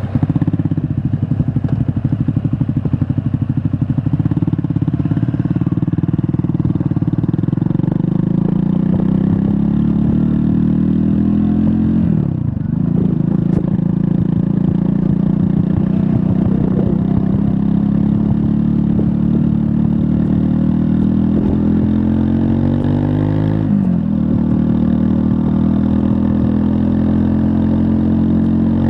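Triumph Scrambler 400 X's 398 cc single-cylinder engine running under way, its note climbing gradually with rising revs. Twice, about 12 and 24 seconds in, the revs dip sharply and climb again. The note is rough and heavily pulsing in the first few seconds.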